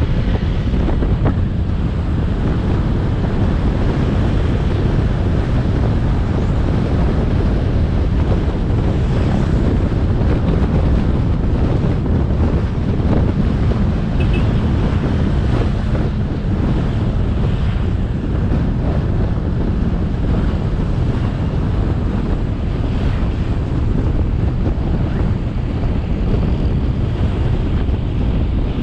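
Wind buffeting the camera microphone on a moving motorcycle: a steady, loud, low rumble, with the motorbike's engine and road noise blended in beneath it.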